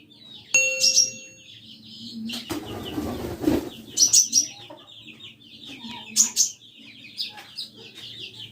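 Small songbirds chirping in quick runs of high notes, with a few sharper, louder calls about a second in, at four seconds and past six seconds, and a rustle like flapping wings near three seconds.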